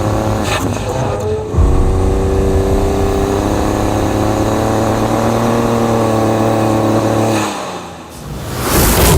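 Ford Raptor's 3.5-liter twin-turbo EcoBoost V6 pulling through sand at a steady, slowly rising pitch. The note drops away about seven and a half seconds in, then comes back loud near the end.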